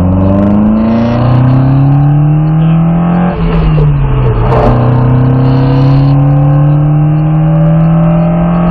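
Lotus Cortina's twin-cam four-cylinder engine accelerating from a standing start, its revs climbing. About four seconds in there is a gear change where the pitch drops, then it climbs again in the next gear.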